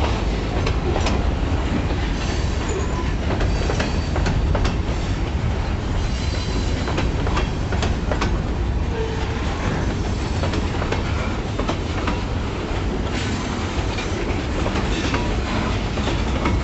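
Freight train cars rolling past at speed: a steady low rumble with irregular clicks of steel wheels over the rail joints and a few brief, faint wheel squeals.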